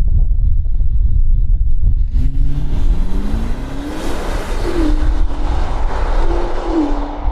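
2019 BMW X6M's twin-turbo V8 through a Valvetronic Designs valved sport exhaust: a low steady drone while cruising, then about two seconds in the engine opens up under hard acceleration, its pitch climbing, with quick upshifts near the middle and near the end that drop the pitch.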